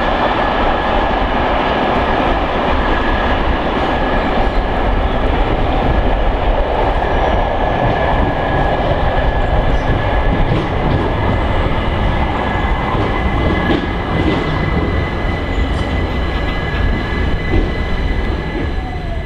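Passenger coaches of a steam-hauled train rolling away along the track: a steady rumble of wheels on rails, with a faint, thin high whine over it.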